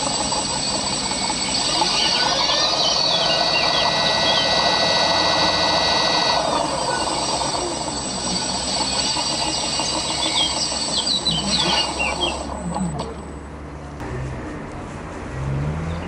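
Washing machine motor rewired as a brushless DC motor and driven by a hobby ESC, running with a whine that rises and falls in pitch twice as its speed is changed. Birds chirp in the background.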